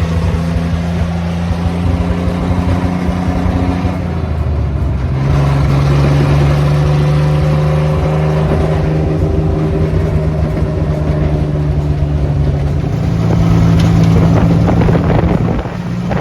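Homemade 1935 Ford rat rod truck's engine running loud while it is driven, its pitch shifting a few times with throttle and gear changes.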